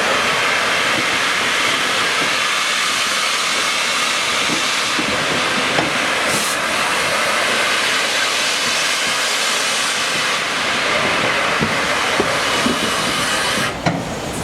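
Steam hissing hard and steadily from the A1 Pacific steam locomotive Tornado, then cutting off abruptly near the end.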